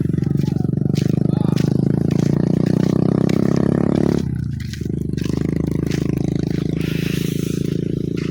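A motor vehicle's engine running close by, its note dropping away briefly about four seconds in, as in a gear change, then picking up again, with scattered light clicks and clatter.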